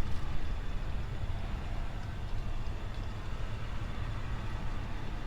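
A vehicle running and moving, a steady low rumble with no distinct knocks or other sharp sounds.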